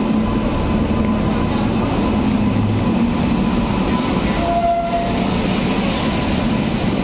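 WAP-7 electric locomotive and its coaches rolling in alongside the platform on arrival: a loud, steady rumble of the train with a steady hum.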